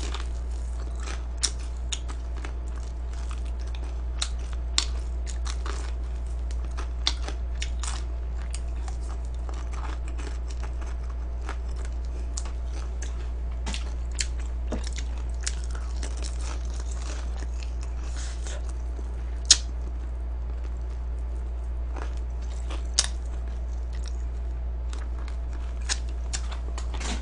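Close-miked chewing and crunching of food, with scattered sharp clicks and crunches throughout, two of them louder about two-thirds of the way in, over a steady low electrical hum.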